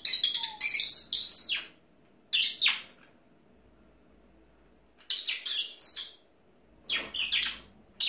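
A small brown songbird chirping: clusters of short, sharp, high calls in four bouts, with quiet gaps between them.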